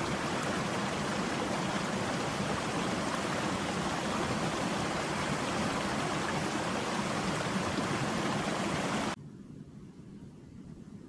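Steady rushing stream water, an even hiss. It cuts off suddenly about nine seconds in, leaving only a much quieter low rumble.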